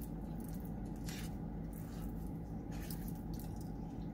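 Chewing and eating of soft, cheesy chili fries, with a few short wet mouth sounds, over a steady low hum.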